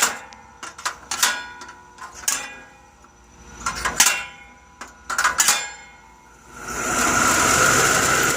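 Sharp metallic clanks and knocks on an air conditioner's condenser unit, each ringing briefly. About six and a half seconds in, the unit starts running with a loud steady whirring hiss. Its fan motor has bearings that are going bad.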